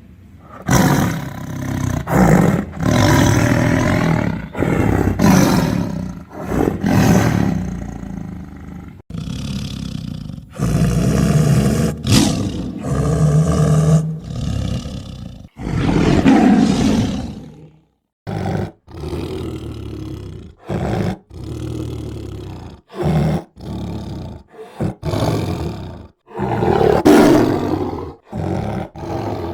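Tiger roaring and growling again and again: long drawn-out roars in the first half, then a run of short roars, each ending abruptly as if edited.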